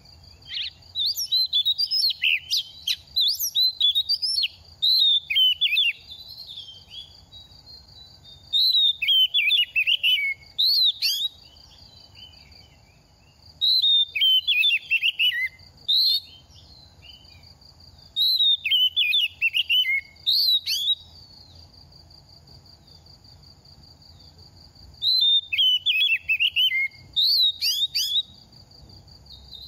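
Oriental magpie-robin singing in about five bursts of rapid, varied whistled phrases, each a couple of seconds long, with pauses between them. A steady high buzz runs underneath.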